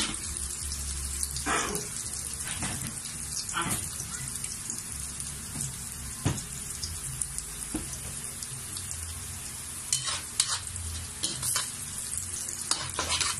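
Ginger, onion and garlic sizzling in hot oil in a wok, a steady hiss, with the metal spatula scraping and tapping against the pan a few times.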